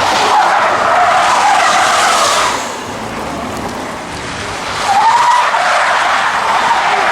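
Car tyres screeching as a car drifts, in two long bouts with a quieter gap of about two seconds between them.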